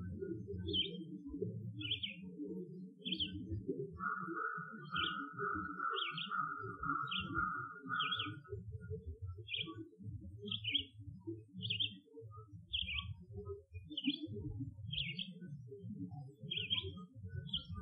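A songbird repeating short high chirps roughly once a second, with a buzzy trill about four seconds in that lasts some four seconds. Under it runs a continuous low, uneven rumble, louder than the chirps, which the recordist takes for happy Bigfoot vocalizations.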